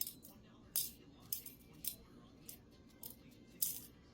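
Irregular light, sharp clicks and ticks, about six in four seconds, from handling small gold pickers and their container at a scale.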